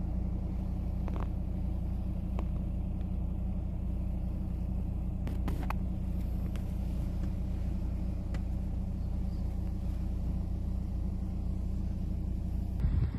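Motor vehicle engine idling, a steady low hum, with a few faint clicks over it.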